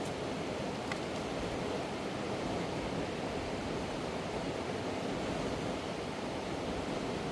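Fast-flowing mountain river rushing steadily, with a faint click about a second in.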